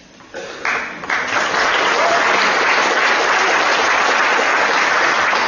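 Audience applauding: a few scattered claps at first, swelling after about a second into steady, full applause.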